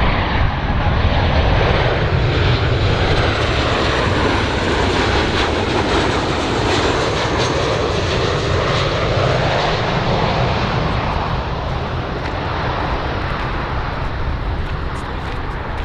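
A large aircraft's jet engines running at high power: a loud, steady rush of noise with a faint high whine that bends in pitch a few seconds in.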